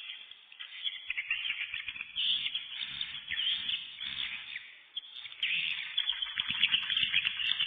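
A flock of swiftlets twittering: many rapid, high chirps overlapping in a dense chorus.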